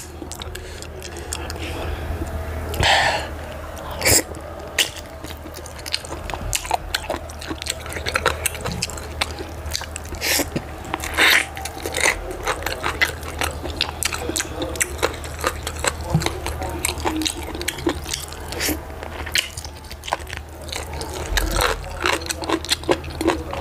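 Close-miked chewing and wet mouth smacking from eating meat in achi soup with the fingers: irregular sticky clicks and bites, a few louder than the rest.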